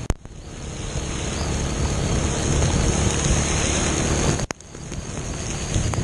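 Heavy rain and rushing street floodwater, a steady loud noise with wind buffeting the microphone and a low rumble underneath. The sound breaks off with a sharp click at the start and again about four and a half seconds in.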